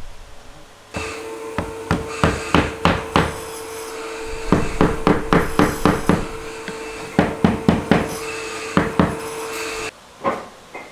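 Hammer striking pallet wood: many sharp blows in quick runs, with short pauses between the runs, over a steady hum.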